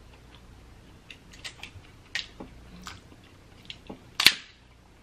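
A person chewing crab meat, with scattered small clicks and one sharp, louder click a little after four seconds in.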